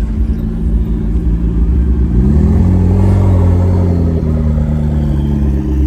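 A car engine running with a deep rumble; its pitch climbs about two seconds in, holds briefly, and eases back down.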